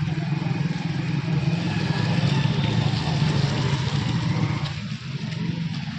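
Road traffic: motor vehicle engines running steadily.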